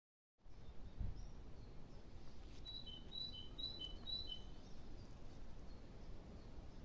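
Faint outdoor ambience with a low rumbling noise, and a bird calling about three seconds in: four quick two-note chirps, each a higher note followed by a lower one, about two a second.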